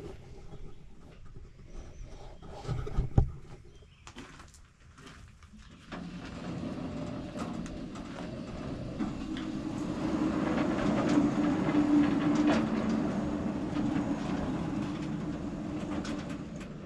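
Knocks and clatter, then from about six seconds in a bandsaw mill's engine and blade run steadily as the saw head goes back over the freshly cut log, the blade just skimming the surface, a sign the mill is set up flat. The running builds to its loudest about midway and eases off near the end.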